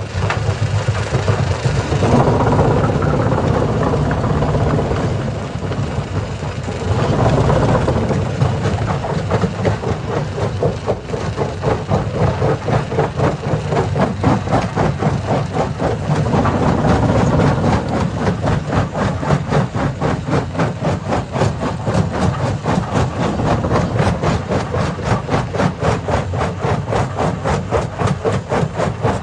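Hammer-type stone crusher running, a loud, steady heavy machine noise. From about ten seconds in it takes on a fast, even pulsing.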